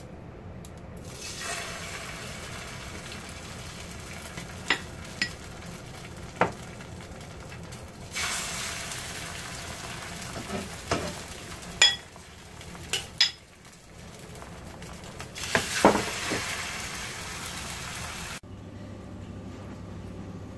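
Egg batter with oysters and Chinese chives sizzling in hot oil in a non-stick frying pan as spoonfuls are ladled in, the sizzle surging louder twice as fresh batter hits the oil. Sharp clinks of a metal ladle come every few seconds. The sizzle cuts off suddenly near the end.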